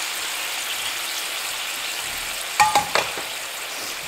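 Tomato, onion and spice sauce sizzling in a cast-iron skillet while it is stirred with a wooden spoon: a steady frying hiss. A few sharp knocks come a little past halfway.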